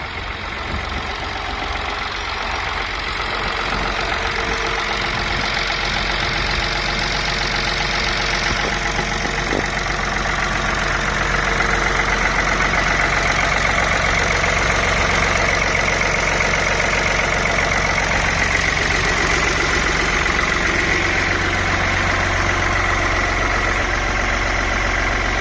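Ford 4610 tractor's three-cylinder diesel engine running steadily at idle, getting louder over the first ten seconds or so and then holding even.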